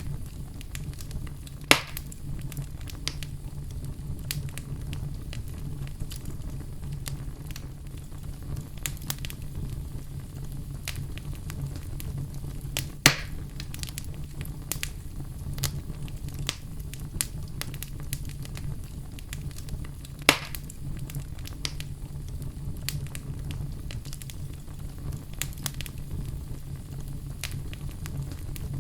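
Wood fire in a fireplace crackling with many small snaps over a steady low rumble, and three louder pops: about two seconds in, about halfway through, and about two-thirds of the way through.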